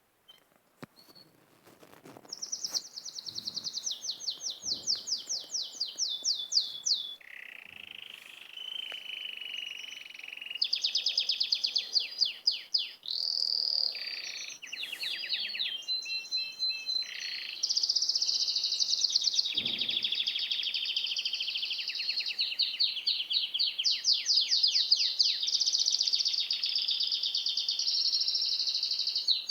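Small songbirds chirping and singing in fast, high trills, one song running straight into the next. The singing starts about two seconds in.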